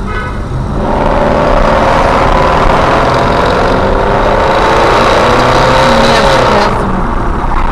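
Car engine running at speed under loud road noise. The engine note climbs slightly and then drops about six seconds in.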